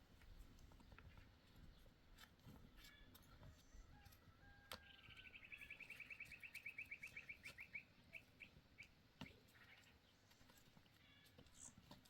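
Faint bird call: a rapid high trill of about eight notes a second for roughly three seconds, slowing into a few separate notes at the end.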